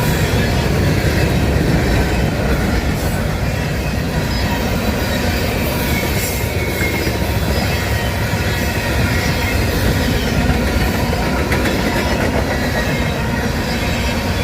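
Railroad freight cars rolling past: a steady, loud rumble of steel wheels on rail, with faint wheel squeal.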